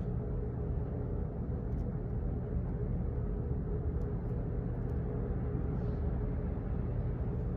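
Steady low office background rumble with a faint constant hum, and a few faint, irregular clicks.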